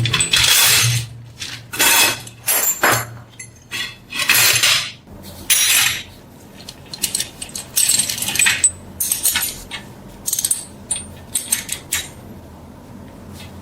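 Metal being worked by hand: a run of irregular scrapes and clinks, each a half-second to a second long, some with a brief ringing, thinning out near the end.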